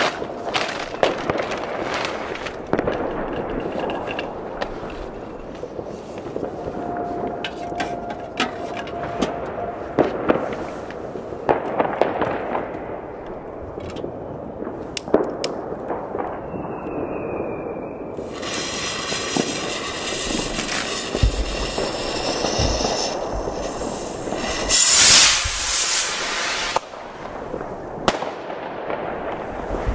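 New Year's Eve fireworks: a steady scatter of bangs and firecracker cracks, near and far. About halfway through, a whistle falls in pitch, then a hissing rush lasts several seconds, and the loudest bang comes near the end.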